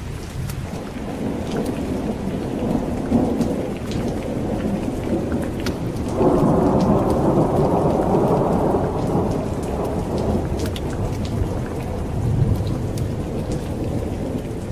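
Steady rain with rolling thunder. The rumble builds from about a second in, swells loudest about six seconds in for several seconds, then eases, with a lower roll near the end.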